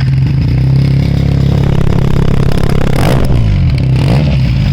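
Benelli TNT 300's parallel-twin engine running loudly at a steady, fairly high speed. About three seconds in, the revs dip briefly and then climb back up.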